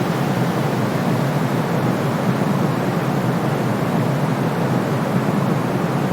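Steady, unchanging white-noise hiss from a sleep-sound track. It is darker than true white noise: a low rushing strongest in the low-mid range, fading toward the highs, with the deepest bass cut off.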